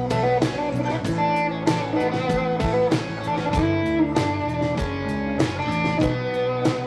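A live band playing an instrumental break, with a plucked guitar lead over a steady drumbeat.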